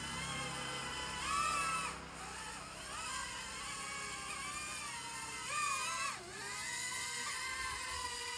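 Remote-control toy jet's small electric motors and propellers whining steadily in flight. The whine swells higher and louder twice, about a second in and again about five and a half seconds in, then drops back.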